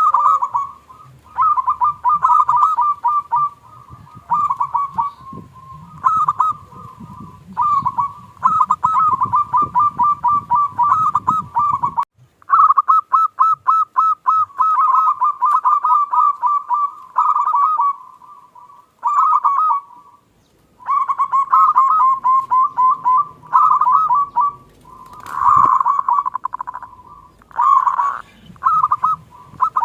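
Zebra dove (perkutut) singing: repeated phrases of rapid, ringing cooing notes, each phrase a second or two long with short pauses between.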